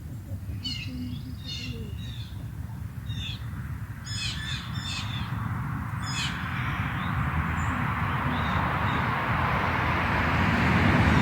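Birds giving short, high chirping calls, about half a dozen in the first six seconds, over a steady low rumble. A rushing hiss swells through the second half and is the loudest sound near the end.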